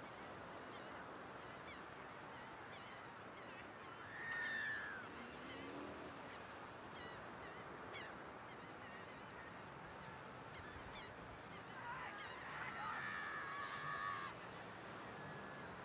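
Birds calling over a steady hiss: faint short chirps throughout, a single arched call about four seconds in, and a longer wavering call with several tones together from about twelve to fourteen seconds.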